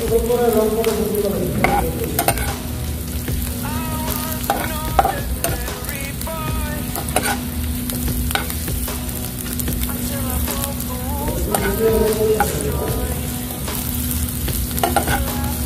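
Sliced onion, garlic and ginger sautéing in oil in a frying pan, sizzling steadily while a metal spatula stirs them, scraping and clicking against the pan.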